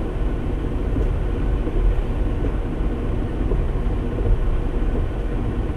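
Semi-truck's diesel engine running steadily, heard from inside the cab as a constant low rumble.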